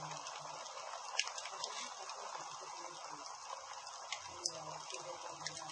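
Campfire crackling: a steady hiss of burning wood broken by a few sharp pops.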